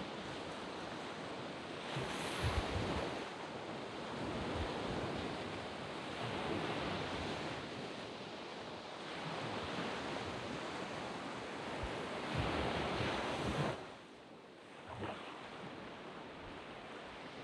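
Waves breaking and washing up a sand beach, a steady rush that swells every few seconds, with some wind on the microphone. The last wash ends suddenly about three-quarters of the way through, leaving a quieter surf hiss.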